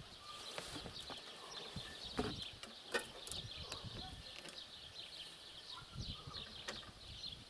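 Faint outdoor background of small birds chirping, with a couple of light knocks about two and three seconds in.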